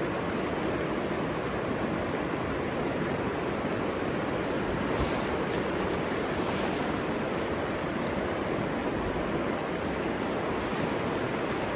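River water rushing steadily, with a few faint light ticks on top.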